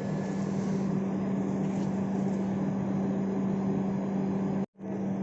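Steady running noise of a moving passenger train, with a constant low hum throughout. The sound drops out abruptly for a moment near the end.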